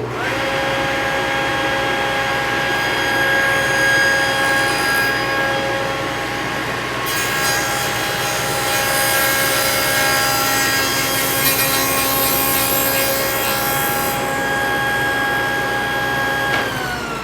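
Table saw with a dado stack starting up, running steadily, and cutting a notch through clamped cedar boards on a sled. The cutting hiss is loudest through the middle. The saw is switched off near the end and its pitch falls as the blade spins down.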